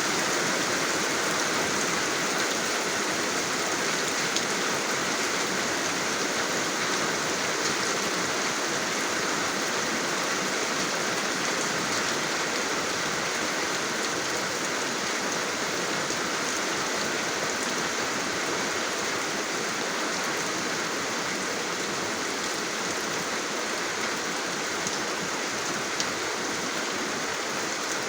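Steady rain falling: an even, unbroken hiss with a few single drops ticking now and then.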